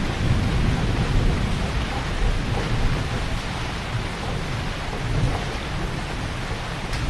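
Heavy rain falling steadily, a dense even hiss with a deep low rumble underneath that eases and swells.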